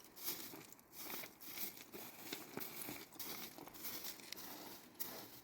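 Irregular rustling and crinkling, a run of short scratchy noises, like something being handled.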